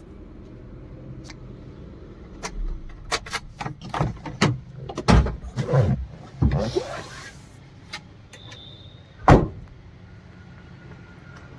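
Clicks and knocks of someone handling the inside of a Maruti Suzuki Eeco van, a short rustling stretch, then a van door shut with a loud thump about nine seconds in.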